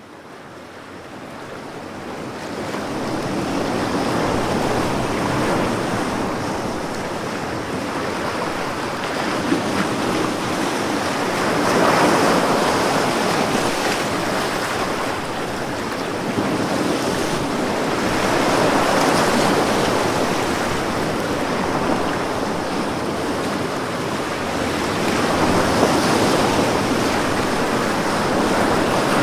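Ocean waves breaking on a beach in continuous surf, each wave swelling and washing back about every seven seconds. The surf fades in over the first few seconds.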